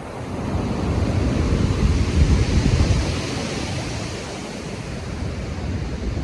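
Storm-driven ocean waves: a heavy wave surges in, building over the first couple of seconds to a deep rumbling peak, then slowly washes back, with wind blowing over the sea.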